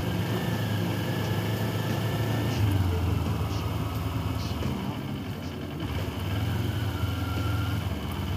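Motorcycle engine running under way with road and wind noise. The engine eases off about five seconds in and picks up again a second later.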